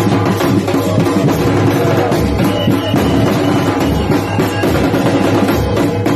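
Drum-heavy music: drums beating a steady rhythm, with deep bass-drum hits about once a second.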